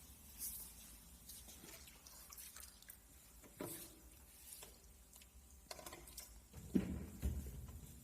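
Water splashing and dripping in the water-filled chamber of a vacuum leak tester, with scattered small knocks of handling; the loudest knock comes about seven seconds in.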